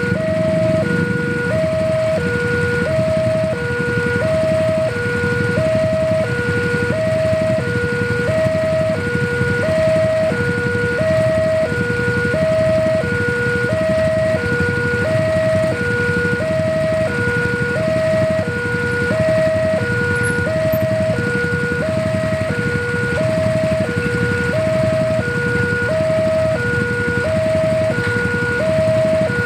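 Railway level-crossing warning alarm sounding: two electronic tones, one higher and one lower, alternating about every half second without a break. Underneath it is a steady low rumble.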